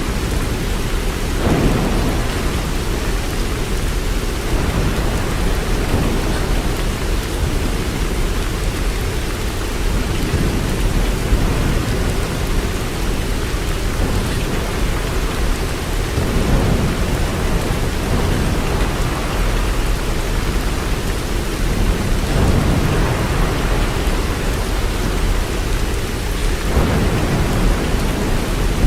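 Steady heavy rainfall, a constant hiss with a deep low rumble beneath. It swells louder briefly a few times.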